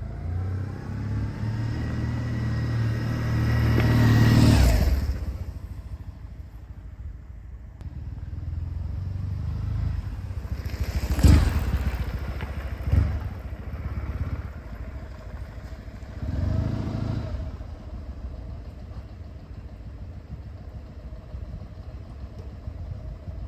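Kawasaki W650 parallel-twin engine through Posh W1 aftermarket exhausts, revving up for about four seconds and dropping back. It gives two sharp throttle blips about halfway through, then a shorter rev, and settles into a low, steady idle.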